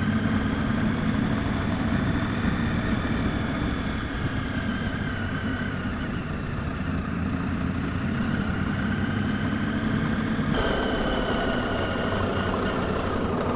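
Motorcycle engine running steadily under way, heard from the rider's own bike, with road noise. The tone shifts slightly about ten and a half seconds in.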